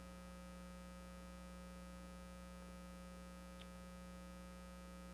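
Steady electrical mains hum from the sound system, faint, with no other sound but a tiny tick about three and a half seconds in.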